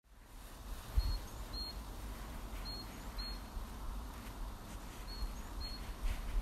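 A small songbird chirping: short, thin, high notes in three pairs, each pair about half a second apart, over a low rumble.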